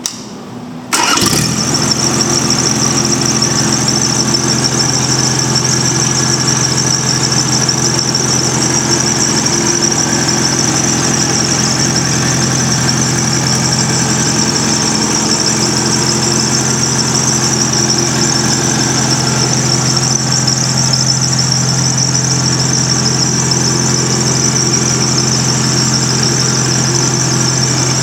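Concrete saw's Yanmar diesel engine starting about a second in, then running steadily with a high whine over the engine note.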